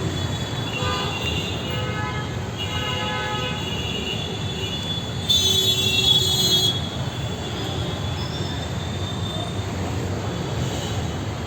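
Busy Indian street traffic with a steady rumble of engines and tyres. Brief horn toots sound in the first few seconds, then a louder high-pitched tone lasts about a second and a half, midway through.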